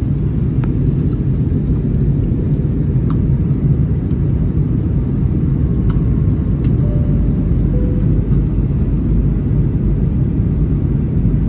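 Steady, loud low rumble of engines and airflow inside the passenger cabin of an Airbus A321neo on final approach, with a few faint clicks.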